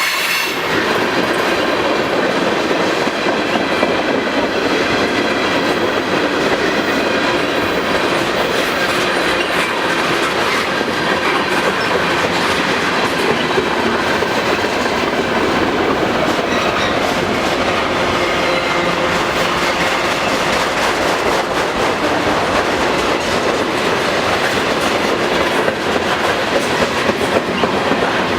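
Freight cars of a long manifest train rolling past at steady speed, wheels clacking over the rail joints.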